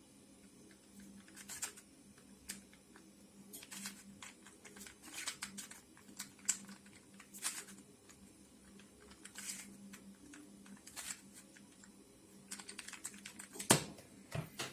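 Hand-turned 3D-printed twisty cube puzzle: its plastic pieces clicking and scraping in irregular twists, with a louder knock near the end, over a steady low hum.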